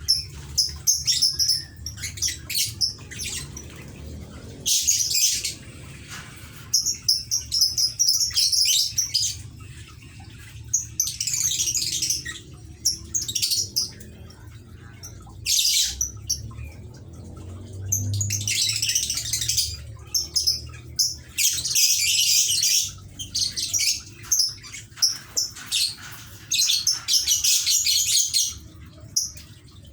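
Lovebirds chattering and squawking in repeated shrill bursts, some brief and some lasting a second or two.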